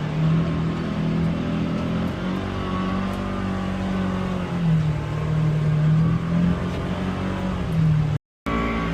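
UTV engine running hard at high revs under load, its note holding steady with small rises and dips. The sound cuts out for a moment near the end.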